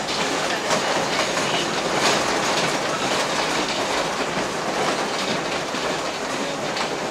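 Steam train running, heard from an open-sided passenger car: a steady rolling rumble with repeated clicks and knocks.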